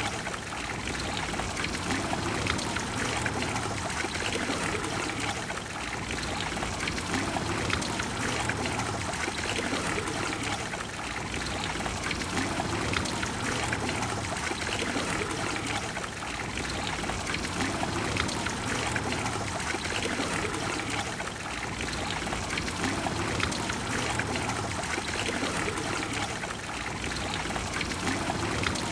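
Trevi Fountain's water cascading and splashing into its basin: a steady, dense rush of falling water with gentle swells every few seconds.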